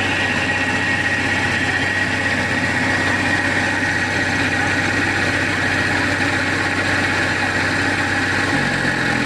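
Mahindra tractor's diesel engine idling steadily, its low note shifting slightly near the end.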